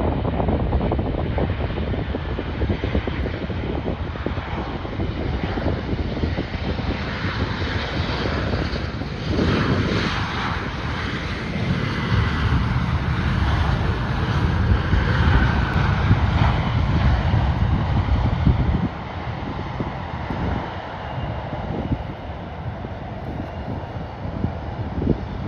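An airliner's engines passing close by, with a whine that falls in pitch around the middle, over heavy wind rumble on the microphone. The low rumble drops away sharply about three-quarters of the way through.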